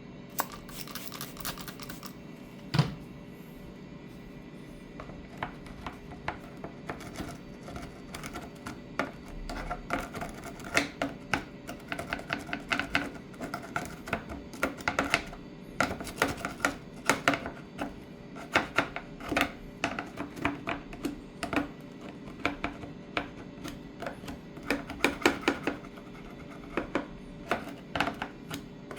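Chair upholstery being cleaned, a dense run of irregular crackling clicks likened to a campfire's crackle, thickening after the first few seconds.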